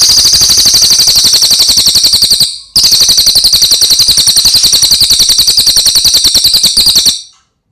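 A songbird's loud, very fast high-pitched trill, well over ten notes a second, in two long runs with a brief break about two and a half seconds in, stopping near the end. It is a master recording used to teach cage songbirds.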